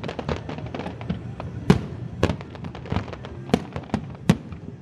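Aerial fireworks going off in a rapid, irregular string of cracks and bangs, several a second, with a few louder booms standing out over a continuous low rumble.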